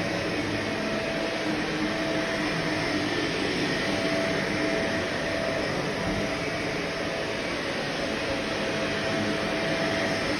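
Vacuum cleaner running steadily, a constant motor tone over the rush of air.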